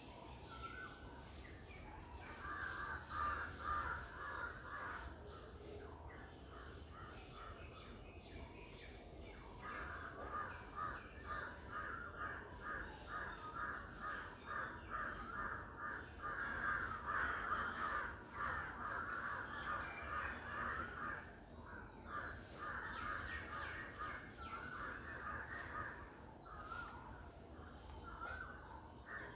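Birds giving harsh, rapid chattering calls in quick series, starting about two seconds in, pausing, then running on through most of the rest.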